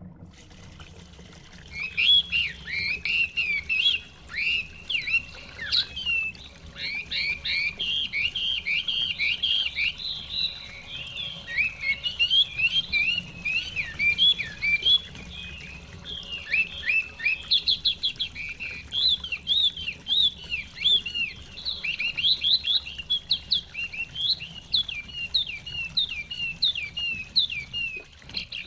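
Chinese hwamei (họa mi) singing a long, rapid, unbroken run of varied, slurred whistled phrases, starting about two seconds in.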